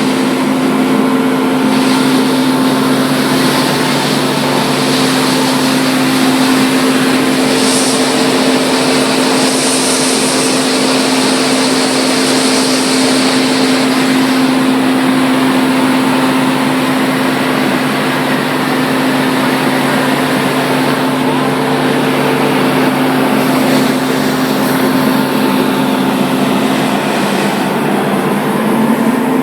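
Wide belt sander running steadily: a constant motor hum under a broad sanding hiss, with the hiss sharper for the first half.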